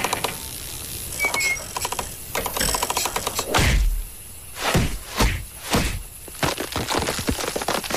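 Cartoon sound effects: bursts of rapid clicking and rattling, then a series of quick swooshes and low thuds.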